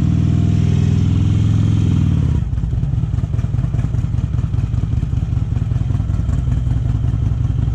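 Harley-Davidson Electra Glide V-twin running through Vance & Hines pipes, pulling strongly under throttle. About two and a half seconds in, the throttle closes and the engine drops to a lower, pulsing note as it rolls off.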